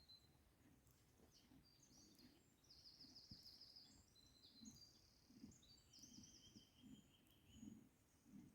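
Faint small-bird song, quick high twittering trills, over near-silent background with soft low thuds about once a second.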